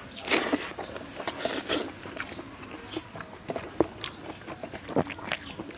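Close-miked eating of a meal of rice, dal and vegetable fries: wet chewing with many sharp mouth clicks, and two louder, longer bites or slurps, one just after the start and one about a second and a half in.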